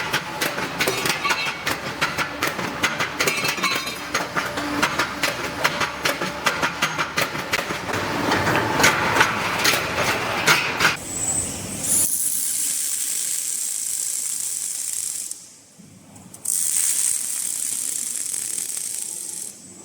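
Angle iron flange processing machinery: dense, irregular metallic clattering and crackling for about twelve seconds, then a steady high hiss that breaks off briefly and resumes.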